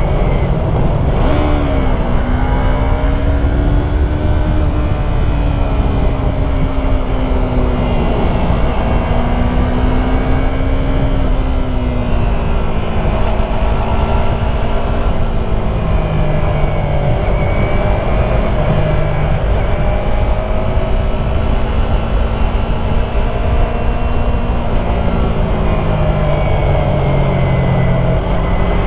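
Yamaha YZF-R3's 321 cc parallel-twin engine under way on a twisty road, the revs rising and falling through the corners, with a quick jump in revs about a second and a half in.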